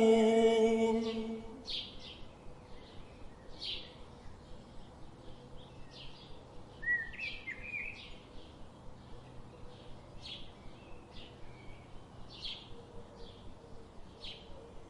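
A recited Quranic chant's final held note fades out in the first second and a half. Birds then chirp over a quiet natural background: short high calls about once a second, with a louder call about seven seconds in.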